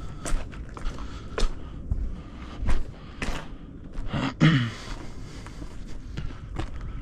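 Footsteps at a walking pace, sharp steps every half second to a second. About four seconds in, a short low pitched sound that bends in pitch, followed by a brief hiss.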